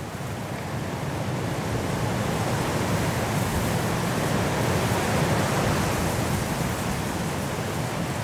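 Strong wind blowing through trees in a snowstorm, a steady rushing noise that swells to a gust about five seconds in and then eases a little.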